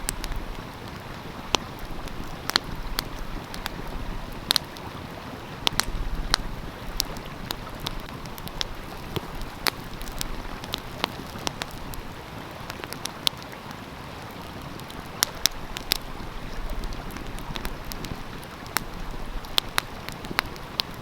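Wood fire crackling, with sharp irregular pops and snaps, over the steady rush of a flowing stream.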